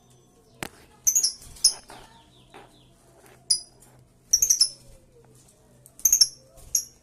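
Lovebird giving short, shrill, very high-pitched chirps in quick clusters of two to four, repeated every second or two. A single sharp click comes just over half a second in.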